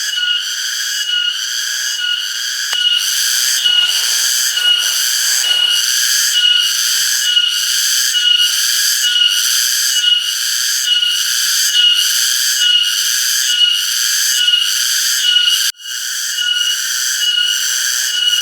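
Cicadas in loud chorus, pulsing in an even rhythm a bit under two pulses a second, with a shrill high buzz over steady whistling tones. The sound cuts out for an instant near the end, then resumes.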